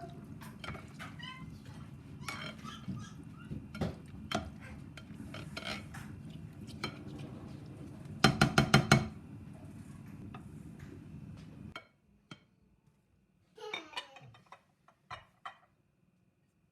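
Kitchen cookware and utensils clinking and knocking over a steady background noise, with a loud quick run of about six knocks a little past the middle. Near the end the background stops abruptly, leaving only a few brief faint sounds.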